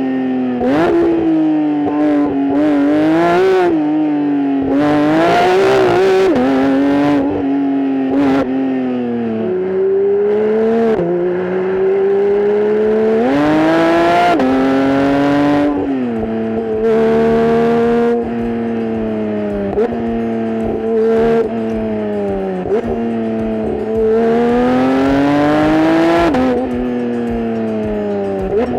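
Porsche 992.1 911 GT3's 4.0-litre flat-six under load on a mountain climb. The revs rise in several pulls and drop sharply between them as it comes off the throttle or shifts.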